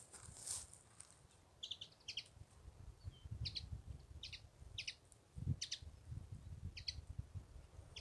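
A small songbird calling over and over: short paired chirps, about one a second, starting about one and a half seconds in, over a low rumble.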